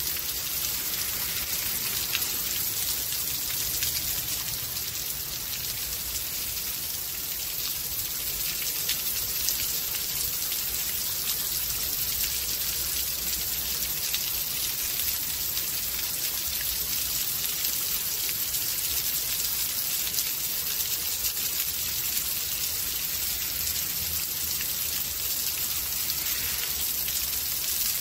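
Steady rain storm: a dense, even hiss of rain with fine individual drop ticks and a faint low rumble underneath.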